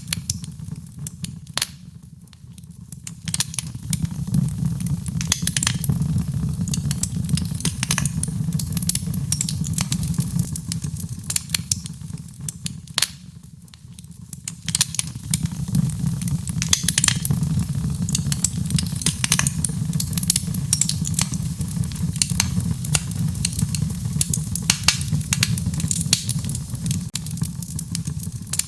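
Fire crackling and popping in a fireplace: many sharp, irregular pops over a steady low rumble of the flames, easing briefly about two seconds in and again near the middle.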